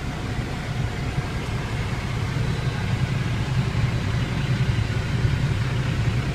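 A dump truck's Cummins ISX inline-six diesel idling, heard from inside the cab. It is a steady low rumble that grows a little louder and fuller about two seconds in.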